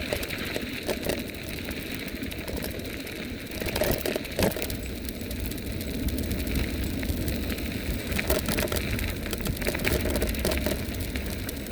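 Riding noise of a Vivi 350 W electric bike at speed: wind buffeting the microphone and a steady rumble of tyres, with small rattles and clicks from the bike. There are a couple of louder knocks about four seconds in. The hub motor itself is hardly heard.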